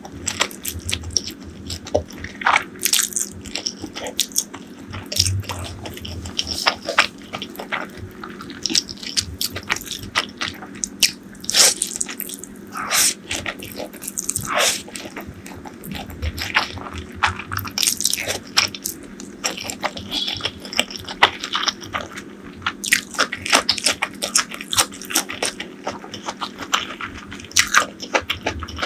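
Close-miked eating: crunchy bites and chewing of crisp fried food, with many irregular crackles.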